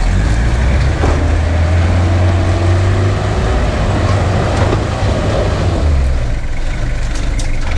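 4WD engine pulling hard under load as the vehicle climbs a slippery, rutted track. The engine note eases off about six seconds in.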